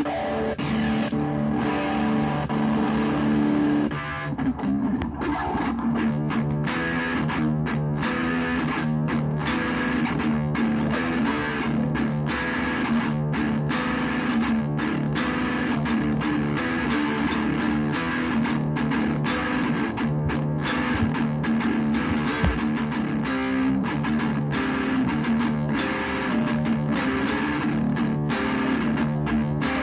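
Donner DMT-100 electric guitar being played freely, a run of sustained chords and notes that change every second or so.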